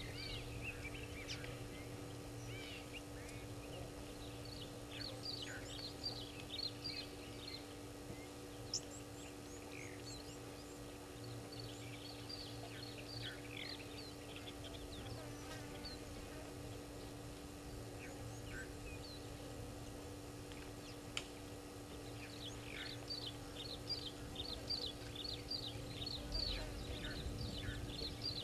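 Small birds chirping in quick, short calls that come in flurries, busiest at the start and over the last few seconds, over a steady low hum.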